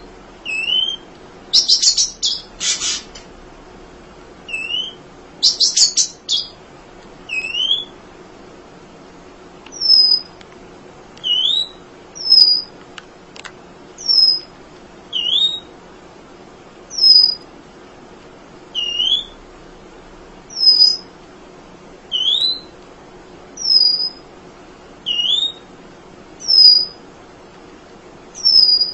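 Emprit (munia) calling over and over, alternating a high falling whistle with a lower rising one, a note every second or so. It adds a few fast buzzy trills in the first six seconds.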